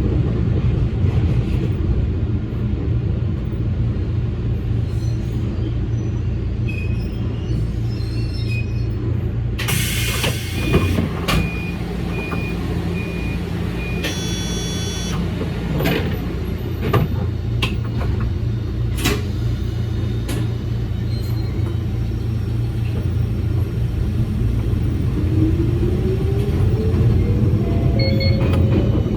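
Electric commuter train running on the line, a steady low rumble of wheels and running gear, with a few sharp clicks and a brief high tone around the middle. Near the end a motor whine rises in pitch as the train picks up speed.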